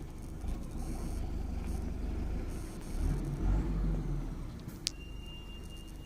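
Truck engine running with a steady low rumble that swells about three seconds in, then eases. A sharp click about five seconds in is followed by a thin, steady high tone.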